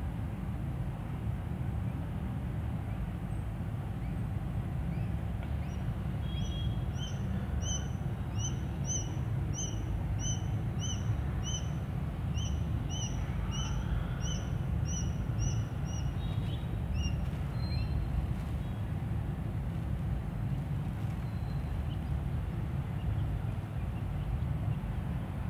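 A bird calling a rapid series of short, identical chirps, about two a second, starting some six seconds in and stopping about ten seconds later, over a steady low rumble.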